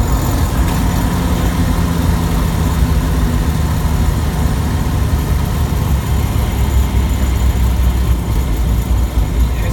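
A 1993 Jeep Wrangler YJ being driven, its engine and drivetrain running steadily with a steady low hum. The owner is chasing a light tick that speeds up and slows with road speed, which he believes comes from the front of the AX-15 transmission.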